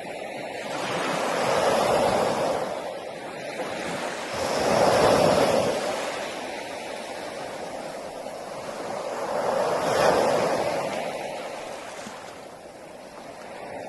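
Sea waves breaking on a beach, the surf rising and falling in slow surges, with the loudest swells about two, five and ten seconds in.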